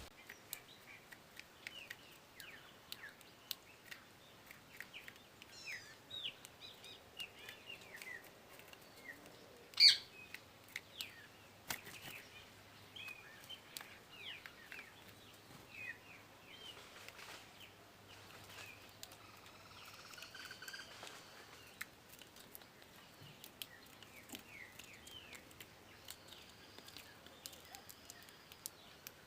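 Small songbirds chirping, many short quick calls scattered throughout, with one much louder call about ten seconds in.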